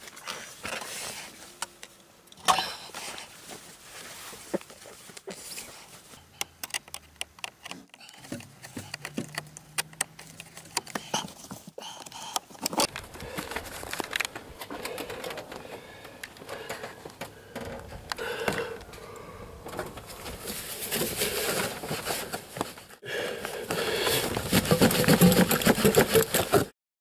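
Scattered clicks and knocks of hands and tools on car parts, then a car engine running with a steady hum, louder over the last several seconds and cutting off abruptly near the end.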